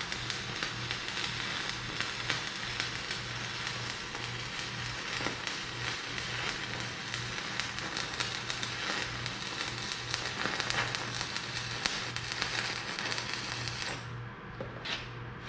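Stick-welding arc crackling steadily as weld is laid onto worn excavator bucket shanks and teeth, with a low steady hum underneath. The arc breaks off near the end.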